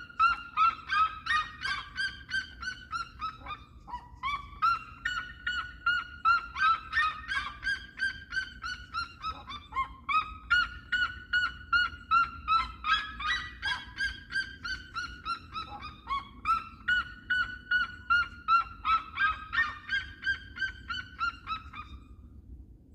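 Seriemas calling: loud, rapid yelping notes, about three a second, in four long series of about six seconds each, the pitch dropping through each series.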